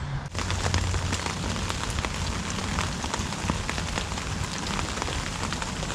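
Steady rain falling, with many separate drop hits heard through it; it begins abruptly a moment in.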